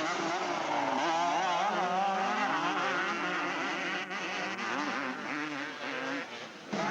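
Motocross motorcycles racing, their engines revving up and down with several pitches rising and falling over one another; the sound drops briefly near the end.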